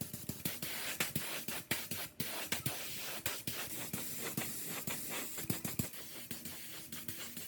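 Irregular scraping and clicking over a steady hiss, from hand work on metal parts.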